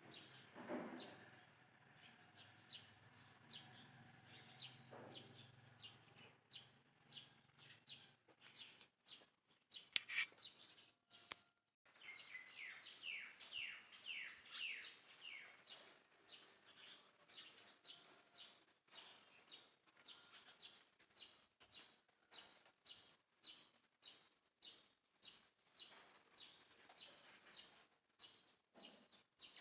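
Faint, high bird chirps repeated steadily, about one to two short falling notes a second, with a single sharp click partway through.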